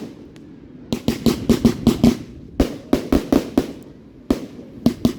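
Fireworks going off in quick volleys of sharp bangs, several a second. The bangs come in a burst about a second in, another from about two and a half seconds, and more near the end.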